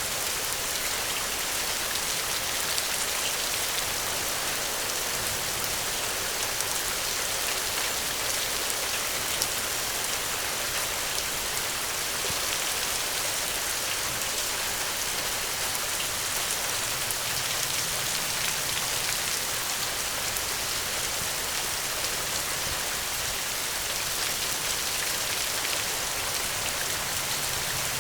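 Steady rain falling, an even hiss with scattered small ticks throughout.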